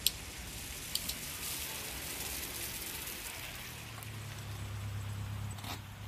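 Steady outdoor background hiss with two sharp clicks, one at the start and one about a second in. From about three and a half seconds in, a car engine idles with a low hum, then stops near the end.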